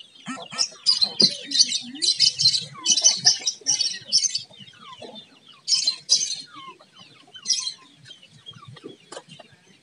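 Sumatran betet (red-breasted parakeet) giving harsh, raspy screeching calls: a rapid run of them for the first few seconds, then two more single calls later on.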